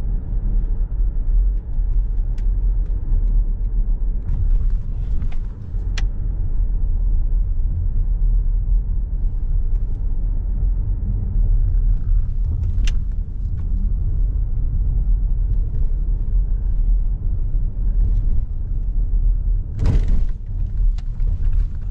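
Car driving along a road: a steady low rumble of engine and tyres, with a few faint clicks and a brief rustle near the end.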